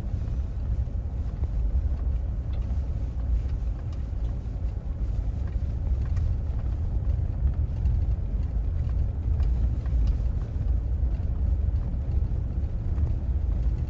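Steady low road and engine rumble inside the cab of a 3/4-ton pickup truck driving on a gravel road, with a few faint ticks over it.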